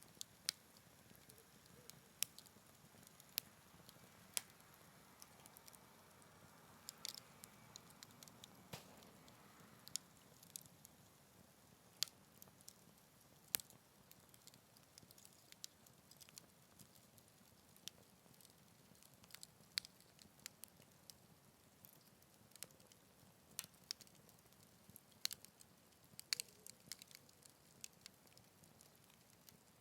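Wood fire crackling quietly, with sharp irregular pops and snaps scattered throughout, a few louder than the rest.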